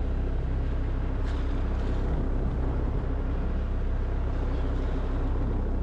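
A boat's engine running at idle: a steady low rumble with a hiss of wind and sea over it.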